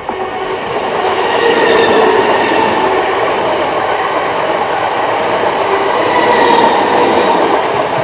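Greater Anglia Class 379 Electrostar electric train passing close by at speed: a loud rush of wheels on rail and air, with a few steady tones over it. It swells as the train arrives and fades near the end as it goes by.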